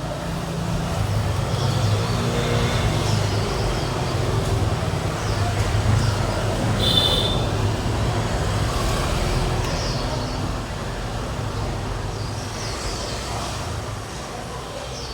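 Steady road traffic rumble of passing vehicles, with a short high beep about seven seconds in.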